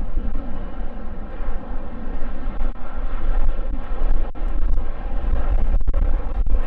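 Jet aircraft engines running with a steady noise, over heavy wind rumble on the microphone.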